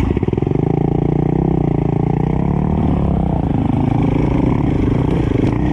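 Enduro dirt bike engine running at low revs close to the microphone, its pitch wavering slightly as the throttle is worked.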